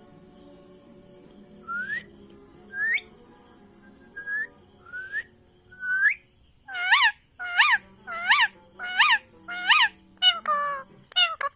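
Parrot whistling: a few short rising whistled notes a second or so apart, then, from about halfway, a run of loud repeated calls that rise and fall in pitch, about one and a half a second, coming faster near the end.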